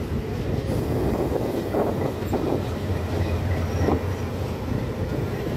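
Diesel locomotive passing with a train of flat wagons: a steady low engine drone under the rumble of wheels on the rails, with a few louder clatters near the middle and end.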